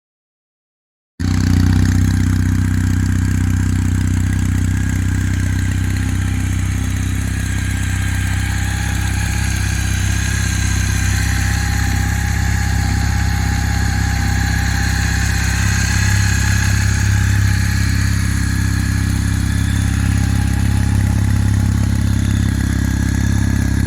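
Kawasaki W800 Cafe's air-cooled parallel-twin engine idling steadily, cutting in abruptly about a second in.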